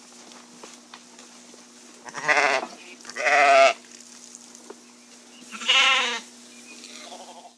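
A sheep bleating three times, each call a wavering, quavering bleat: two close together about two seconds in and one more near the six-second mark.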